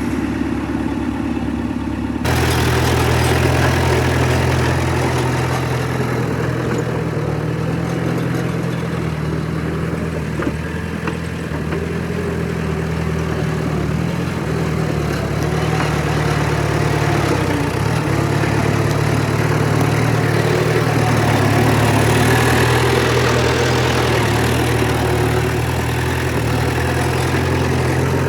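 Heavy diesel engine of earthmoving equipment running steadily, with engine noise and rattling over a low drone. The sound shifts abruptly about two seconds in, then runs on evenly.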